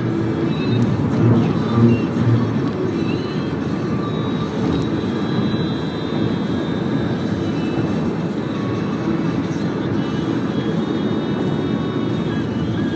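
Steady road and engine noise inside the cabin of a Toyota Camry 2.4 driving along, with a few louder rumbles in the first couple of seconds.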